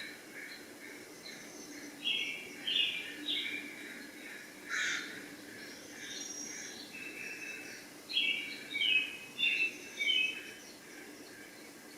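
Small birds chirping in short, quick phrases, with a busier run of calls about two-thirds of the way through, over a faint steady hum.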